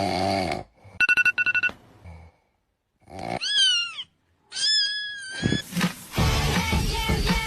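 A snore, followed by a burst of rapid electronic alarm beeps, then a cat meowing twice, the first call falling in pitch. Loud music with singing starts about two thirds of the way in.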